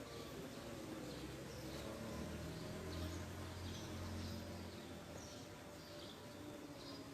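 A bird chirping repeatedly in short high calls, more than one a second. A low hum rises under the calls for a few seconds in the middle and then fades.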